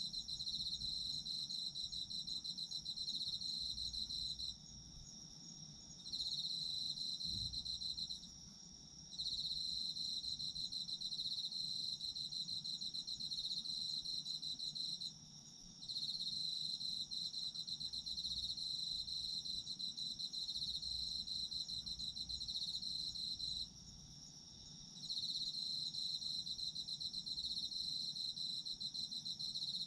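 Autumn crickets calling. One sings a loud, fast pulsing trill in long phrases broken by four short pauses, over a second insect's steady, higher unbroken note.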